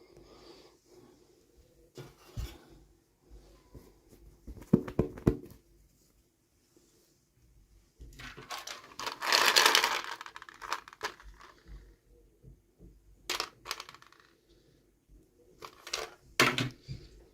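Hands opening and handling small plastic toy packaging. There are several sharp clicks and taps, and a burst of crinkling and tearing about eight to eleven seconds in.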